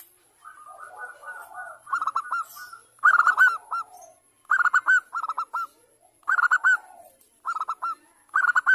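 Zebra dove (perkutut) calling: about six bursts of quick, clipped cooing notes, each burst lasting under a second.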